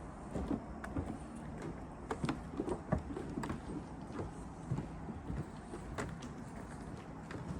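Footsteps of a person walking: irregular knocks and scuffs over a steady low rumble.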